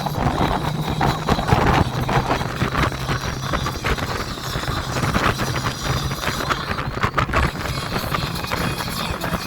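Wind buffeting a phone's microphone on a moving motorcycle, over a steady low engine drone.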